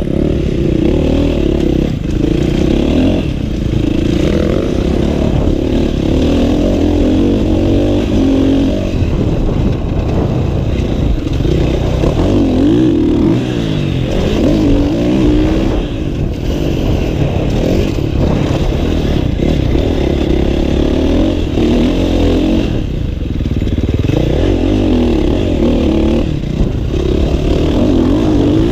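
Motocross dirt bike engine being ridden hard round a track, the revs repeatedly rising and dropping as the rider opens and shuts the throttle.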